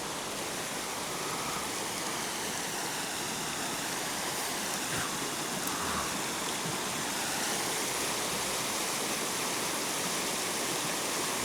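Creek water rushing steadily over a small waterfall, a constant hiss of flowing water that grows slightly louder toward the end.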